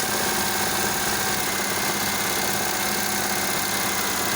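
Suzuki F6A 12-valve three-cylinder engine idling steadily, with an even, rapid pulsing beat.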